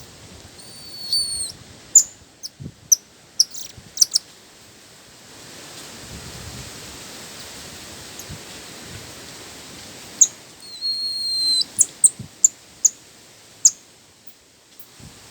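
A bird calling: a held high whistled note about half a second long, then a quick run of short sharp chirps. The phrase comes twice, about nine seconds apart.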